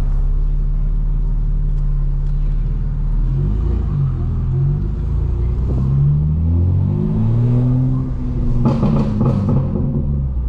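Straight-piped BMW M4 Competition's twin-turbo inline-six running at low speed, its note rising and falling with light throttle, with a short burst of crackling near the end.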